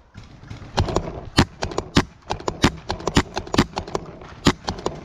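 Paintball markers firing in a rapid, irregular string of sharp pops, some much louder than others.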